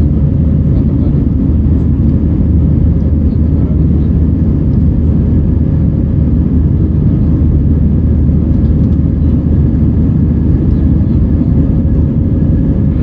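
Steady cabin noise of an Airbus A320-232 in flight: a constant low rumble of its IAE V2500 engines and airflow over the fuselage, with a faint steady hum above it.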